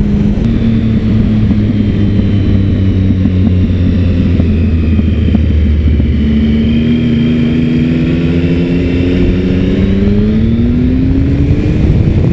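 Triumph Sprint ST 1050 three-cylinder engine under way on the road, holding a steady pitch and then rising in pitch over the second half as the bike accelerates.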